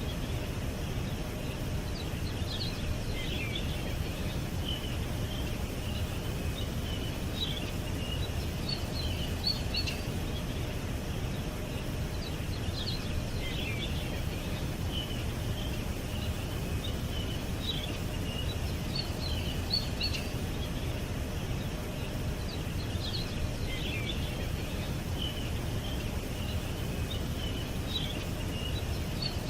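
Small birds chirping and twittering in short, scattered calls that come in clusters, over a steady low background rumble.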